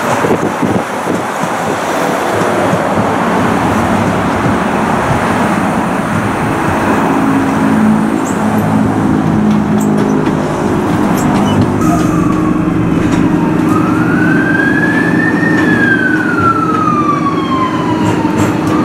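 Docklands Light Railway train: wheel and track rumble at first, then a steady electric hum, then a traction motor whine that rises, peaks and falls away over several seconds before rising again at the end.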